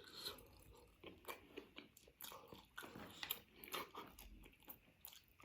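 Faint close-miked chewing and biting of food, with irregular soft crunches and mouth clicks.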